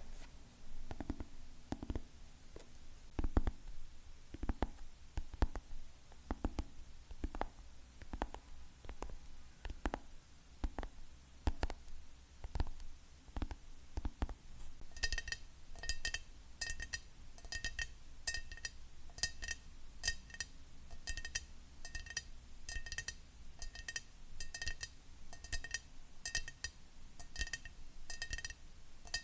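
Fingernails tapping, at first on a wooden surface with dull, irregular knocks. About halfway through it switches to tapping a glass item, each of a few taps a second ringing with a clear high pitch.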